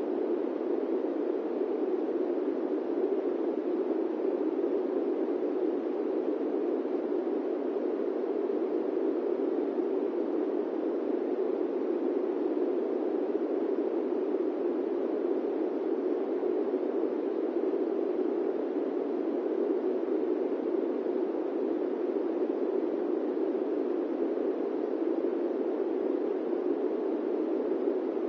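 Steady airplane-cabin-style white noise: an even, deep rushing sound with no changes or separate events.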